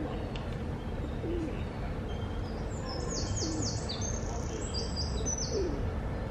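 Birdsong over a steady low rumble: low, falling cooing notes about once a second, and in the middle a small bird's quick run of high, falling whistled notes.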